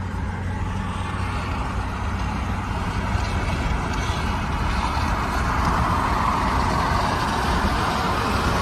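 Car driving on the road: steady engine and tyre rumble, with the road noise growing louder in the second half.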